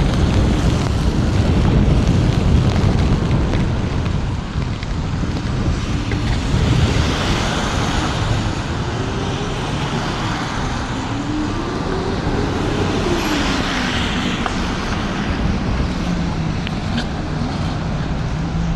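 Riding sound from an electric scooter on wet streets in a wintry mix: wind buffeting the helmet microphone over the hiss of tyres on the wet road. Around the middle, a whining tone rises and falls in pitch a few times.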